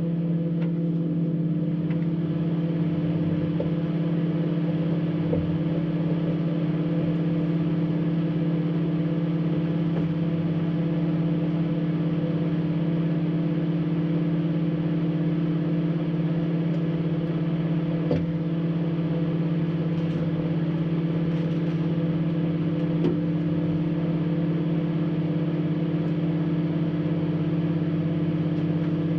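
Microwave oven running with a steady electrical hum while a metal energy drink can with a plastic cap heats inside. There is no arcing or sparking from the can.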